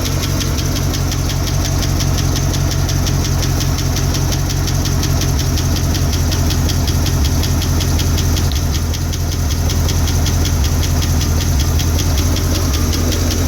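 International Harvester 345 V8 in a 1974 International 1600 truck, running at a steady idle just after its first cold start in eight to ten years, with an even firing beat.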